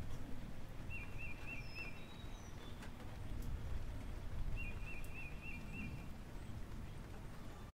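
A bird calls twice, each call a quick run of four or five wavering notes, about three seconds apart, over a steady low rumble of background noise.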